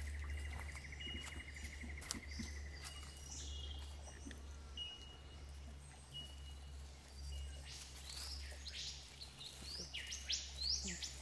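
Forest birds calling: a rapid trill in the first few seconds, scattered short whistled notes, then a quick run of falling whistles near the end, over a low steady rumble.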